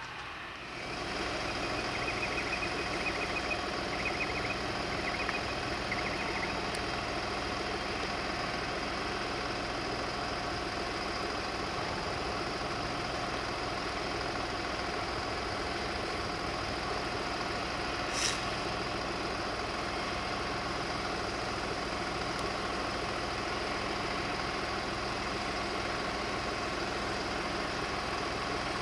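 A large vehicle engine idling steadily, with one short sharp click about eighteen seconds in.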